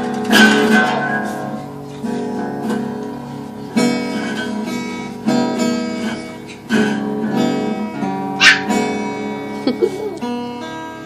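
Acoustic guitar strumming: chords struck about every one and a half seconds, each left to ring.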